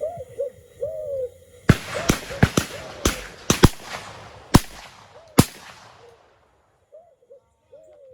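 About nine shotgun shots in quick succession, fired at game birds, each ringing off. A bird's repeated cooing calls are heard before and after the shooting.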